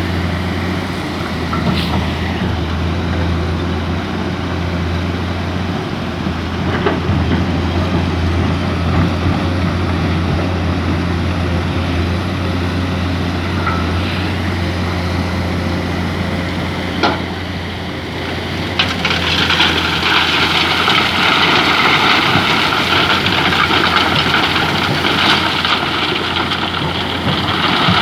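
Mining excavator's engine running steadily under work. About two-thirds of the way through it grows louder and harsher, with a single sharp knock shortly before.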